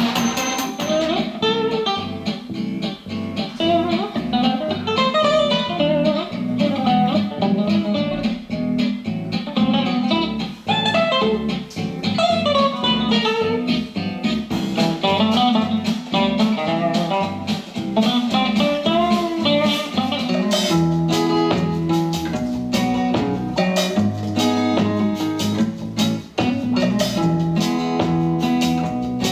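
Blues-style guitar music played through an iClever BoostSound BTS09 Bluetooth speaker, with a picked guitar melody over bass; a fuller bass and drums come in about two-thirds of the way through.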